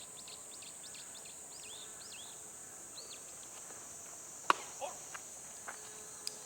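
Outdoor ambience of a steady high-pitched insect drone with scattered short bird chirps. About four and a half seconds in comes one sharp knock with a brief ring, followed by a few fainter clicks.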